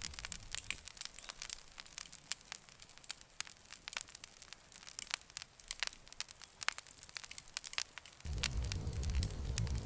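Campfire crackling, with frequent sharp pops and snaps of burning wood. A low rumble comes in suddenly near the end.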